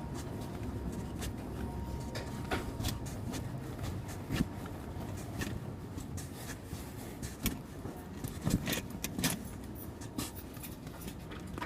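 Keys jangling with irregular small clicks and knocks over a steady low rumble.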